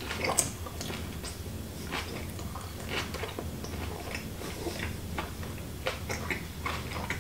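A person chewing a mouthful of food with the mouth closed: irregular small clicks and smacks, with a sharper click about half a second in, over a low steady hum.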